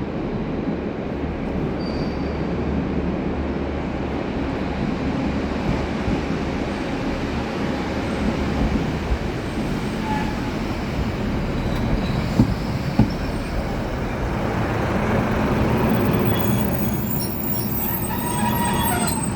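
Passenger train running into a station platform, a steady rumble of wheels and running gear. There are two sharp knocks about twelve and thirteen seconds in, and a thin squeal of wheels near the end.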